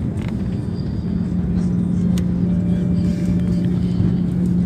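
Steady low rumble of a four-engine Airbus A340 airliner heard inside the passenger cabin, with a constant droning hum and a faint higher tone briefly in the middle.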